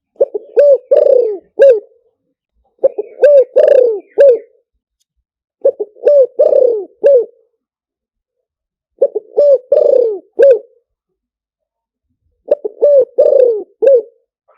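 Spotted dove cooing: five phrases about three seconds apart, each a quick run of low coos with one longer, falling note in the middle. This is the call of a decoy dove used to lure wild spotted doves in for trapping.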